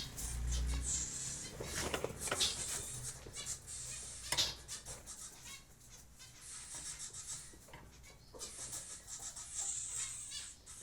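Cockatiels making high, squeaky chirps in rapid runs, with a few sharp clicks mixed in.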